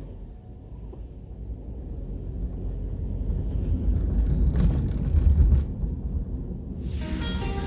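Low rumble of a limited express electric train passing over a level crossing, swelling to its loudest about five seconds in and then easing off. Music comes in near the end.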